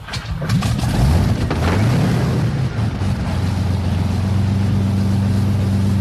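Hawker Hurricane's Rolls-Royce Merlin V12 engine starting: a series of coughs and pops as it fires, catching within about two seconds and settling into a steady, loud run.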